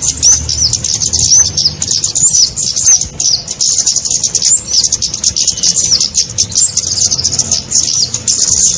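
Kemade bird lure call: a rapid, unbroken stream of short, high-pitched chirps, many to the second, some with little hooked glides in pitch, used to draw small birds such as flowerpeckers.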